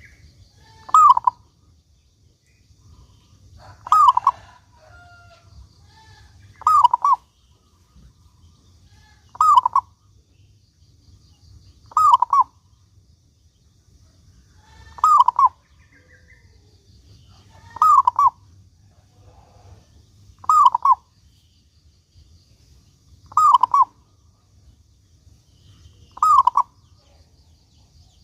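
Zebra dove (perkutut) cooing: a short, broken call repeated about every two and a half to three seconds, ten times.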